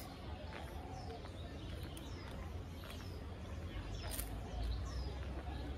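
A bird calling over and over, a short high note that drops in pitch about once a second, over a steady low rumble, with a brief hiss about four seconds in.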